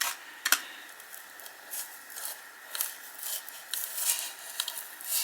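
Tinplate mechanical toy car pushed along by hand, its pressed-metal body and works giving irregular light clicks and short scrapes, the push mechanism driving its windscreen wipers.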